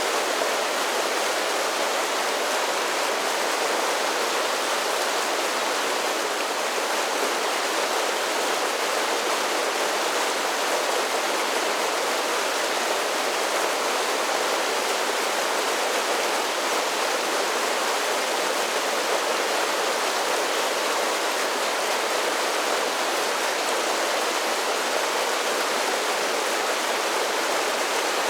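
Mountain creek rushing steadily over a series of small falls: a continuous, even splashing with no let-up.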